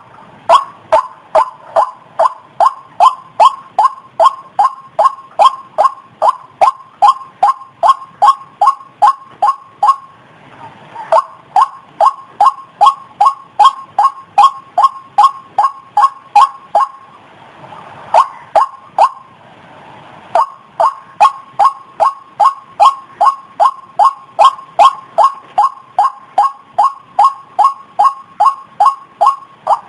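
White-breasted waterhen (ruak-ruak) calling: a loud, rapid series of repeated notes, about three a second, that breaks off briefly about ten seconds in and again for a couple of seconds near the seventeen-second mark before resuming.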